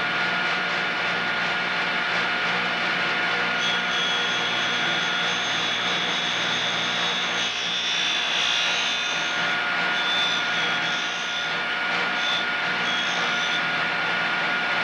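End mill sharpening grinder running with a steady whine. From about four seconds in until near the end, a higher-pitched grinding sound joins it as a flute of the end mill is ground against the wheel.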